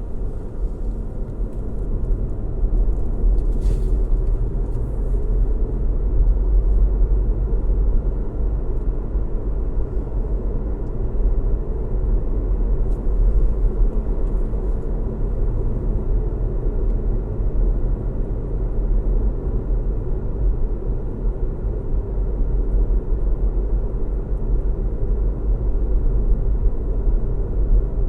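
A car driving at a steady speed: a steady low rumble of engine and tyre road noise, with no change in pace.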